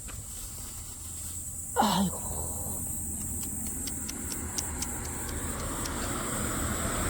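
Road noise of an approaching car, growing steadily louder in the second half, with a man's short groan of dismay ("aigo") about two seconds in and a few faint ticks in between.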